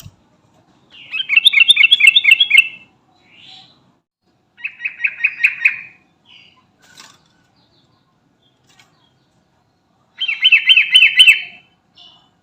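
Yellow-vented bulbul (trucukan) singing in three bursts, each a fast run of about five bubbling notes a second, with faint short calls between them.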